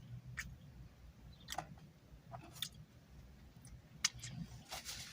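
Soft, scattered mouth clicks and smacks of someone chewing a Subway sandwich, a few short ticks a second apart, with more of them near the end.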